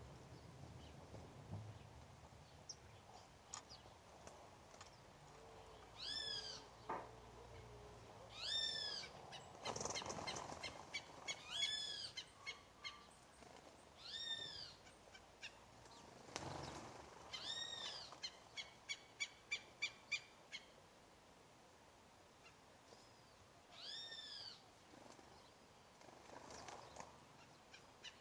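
Birds calling: one repeated call that arches up and falls back, given about six times a few seconds apart, and a quick run of short repeated notes, about five a second, near the middle and again near the end.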